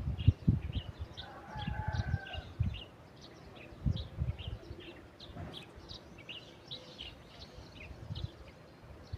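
Small birds chirping: a string of short, high chirps, several a second, with a few low thumps and a brief lower call about two seconds in.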